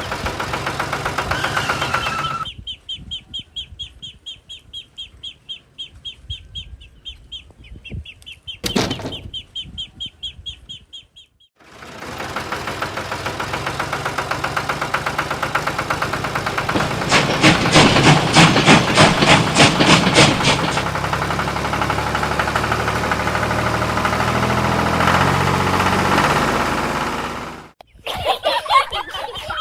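A small engine running with a fast pulsing beat, loudest in the middle stretch, then cutting off suddenly. Before it and again near the end, rapid high bird chirping repeats many times a second.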